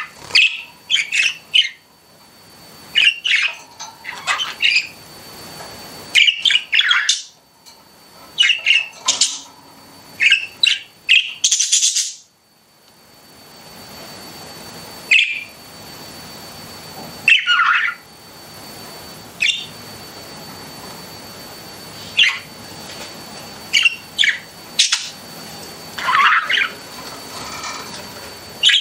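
Pet budgerigars chirping and squawking in quick bursts, with dense chatter for the first dozen seconds, then scattered single calls.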